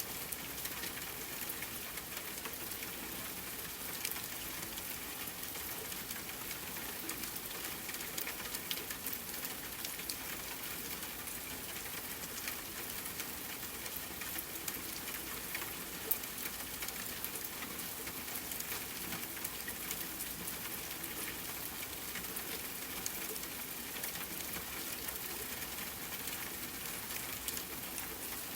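Steady rain mixed with a wood fire crackling: an even hiss with scattered sharp crackles and pops throughout.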